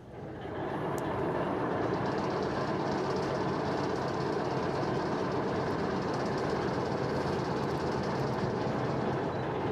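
Model train locomotive running along its track with a steady rolling rumble that builds up over about the first second.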